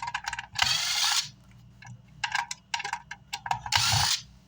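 A screwdriver is removing the amplifier's case screws. Runs of sharp clicks are broken by two short whirring bursts, about a second in and near the end.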